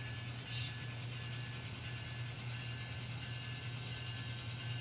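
N scale model locomotive running along the track: a steady low hum and a thin high whine, with a few faint light clicks scattered through.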